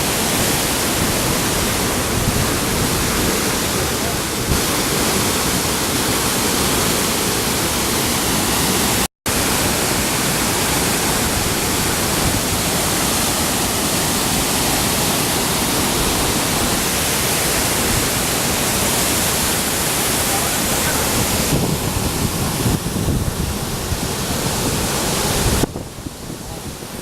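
Steady roar of a waterfall, an even rushing hiss spread across all pitches. It cuts out for an instant about nine seconds in, and near the end it drops and becomes gustier.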